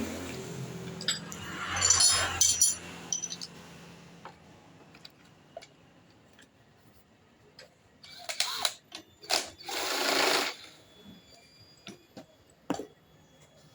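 Workshop sounds on a motorcycle: a low mechanical running sound that fades over the first few seconds, then scattered clicks and clinks of tools and metal parts, with a few short noisy bursts about two-thirds of the way in.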